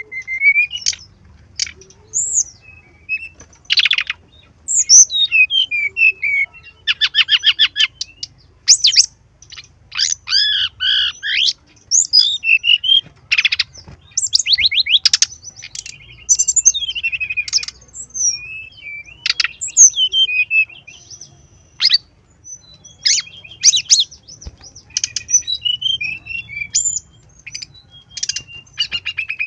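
Brown-chested jungle flycatcher singing a varied, fully loaded song of short whistled notes, chirps and rapid trills in quick succession, with brief pauses between phrases.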